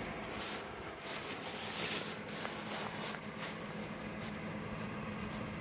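Faint soft scuffs and rustles of handling or footsteps over a low steady hum.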